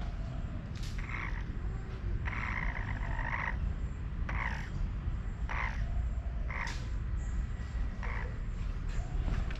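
A frog croaking repeatedly: about seven short calls roughly a second apart, one of them longer about two seconds in, over a steady low rumble.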